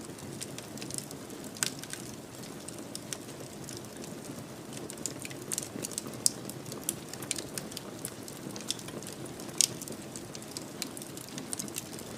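Wood fire in a fireplace crackling: a steady low rush of burning under frequent irregular sharp pops and snaps, the loudest about six and nine and a half seconds in.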